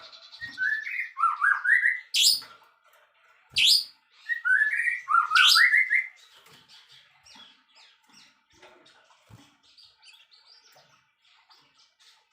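A songbird singing two loud phrases of quick stepped notes climbing in pitch, each cut by a sharp upward-sweeping whistle. Softer scattered chips and twitters follow in the second half.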